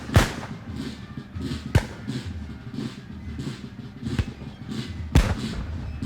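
Gunshots on a battlefield sound-effect track: single sharp shots, about four in six seconds and irregularly spaced, each with a short echoing tail, the first and last the loudest, over a steady low rumble.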